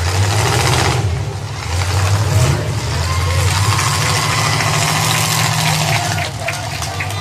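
Demolition derby car engines running and revving, the pitch rising about two seconds in and holding before easing off, with a few sharp knocks near the end.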